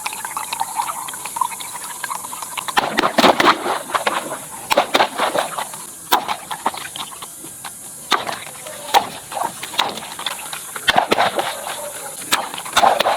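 Cartoon sound effects: voice-like cries and many sharp clicks and pops.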